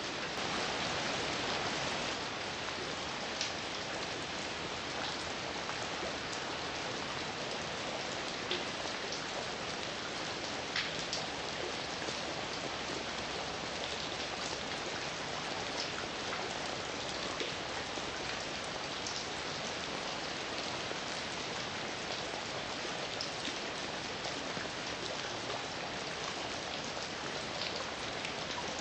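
Steady rain falling, with scattered louder drops ticking on a surface; a little louder for the first couple of seconds.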